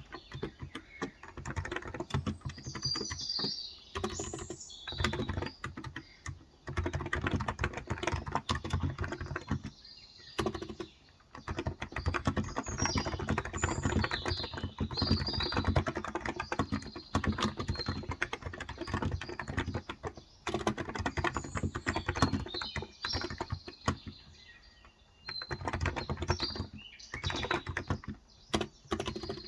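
Fast, continuous typing on a Cox Endeavor electro-capacitive (Topre-style, 35 g) tenkeyless keyboard, with a few brief pauses. Birds chirp in the background at times.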